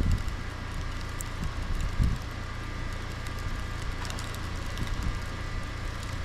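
Blizzard wind buffeting the microphone: an uneven low rumble that surges in gusts, louder just at the start and about two seconds in.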